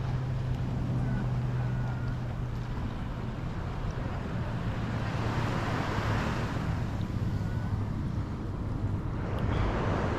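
Surf washing onto a sandy beach, with wind buffeting the microphone. The wash swells twice, about halfway through and again near the end, over a low steady hum that fades during the first few seconds.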